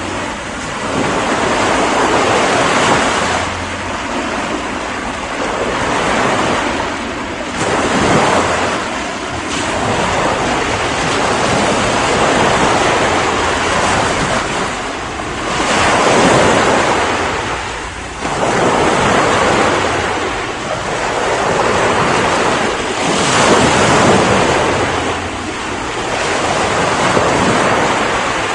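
Ocean waves breaking and washing on a shore, the surf swelling and ebbing every few seconds, with wind over it.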